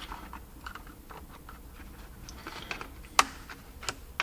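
Small hand tools clicking and tapping against a plastic backup camera housing as it is handled. Scattered light clicks, with one sharper click about three seconds in and another shortly after.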